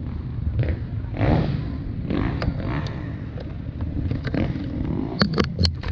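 Motocross motorcycle engines running at the start line, with several sharp knocks close together near the end.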